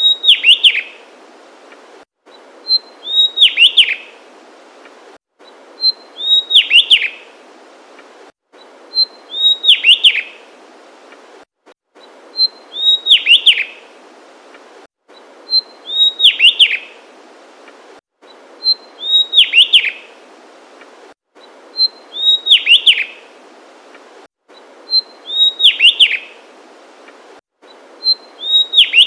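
Javan tesia singing: a short high note followed by a quick tumbling phrase of falling notes, about a second long. The same phrase repeats about every three seconds, roughly ten times.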